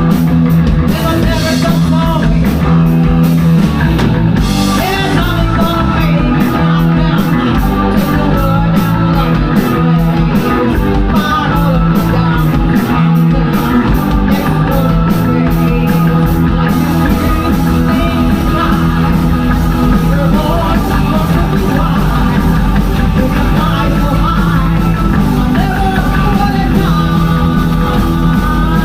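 Live rock band playing with vocals, electric guitar, bass and drums; a fast high ticking from the drums, likely hi-hat or ride cymbal, runs until about halfway through and then stops.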